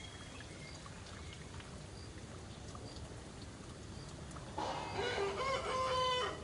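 Baby macaque crying: a long, high-pitched, drawn-out wail that starts about four and a half seconds in.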